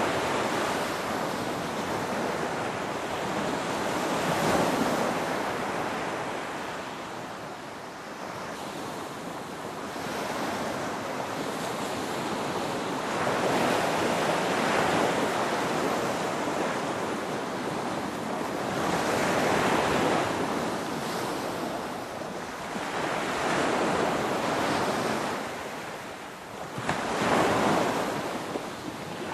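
Ocean waves breaking and washing in, a continuous rush of surf that swells and ebbs every few seconds, with a stronger surge near the end.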